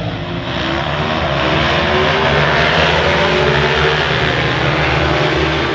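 Middleweight road-racing motorcycle engines running hard at high revs, their pitch rising and shifting, getting louder over the first couple of seconds and then holding steady.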